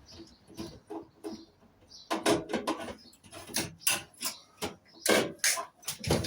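Irregular clinks, knocks and scrapes of tools and metal parts being handled while a microwave oven is taken apart. The sounds come thicker from about two seconds in.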